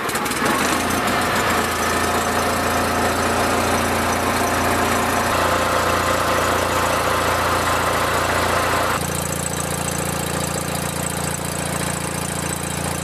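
Onan opposed-twin engine on a Toro Wheel Horse 416H lawn tractor running steadily just after starting, its note changing about five seconds in and again about nine seconds in.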